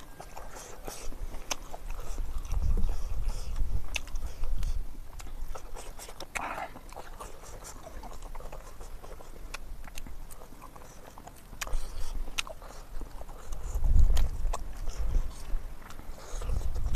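Close-miked chewing and lip-smacking of a person eating curry and rice by hand, with many sharp wet mouth clicks. Two stretches of low rumble, a couple of seconds in and again in the second half, are the loudest sounds.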